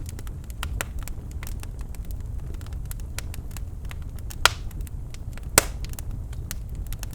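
Birch logs burning in a fireplace: a low steady rumble of flame with frequent small crackles and two louder pops a second apart, about halfway through.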